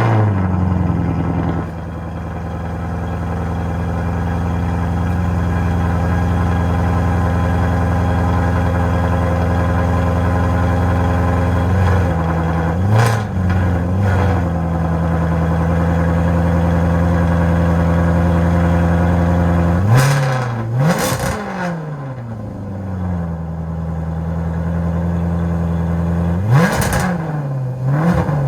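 2011 Maserati GranTurismo's V8 through a Larini X-pipe exhaust and BMC air filter, settling from its start-up flare into a fast cold idle. It is given short, light throttle blips: once about halfway through, twice in quick succession about two-thirds through, and once more near the end.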